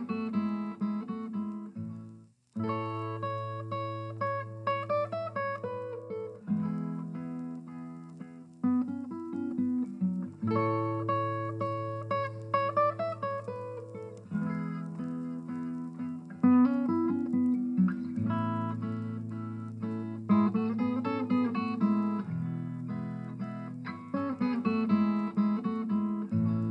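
Plucked acoustic guitar music with held bass notes under a picked melody, breaking off briefly a little over two seconds in before starting again.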